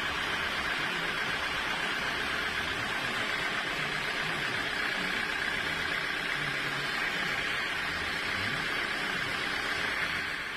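Sawmill machinery running with a steady, unbroken noise.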